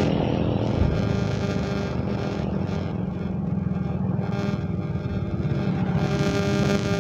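Honda sport motorcycle's engine running at low revs as the bike slows and rolls almost to a stop, with wind rush on the rider's microphone dying away in the first second.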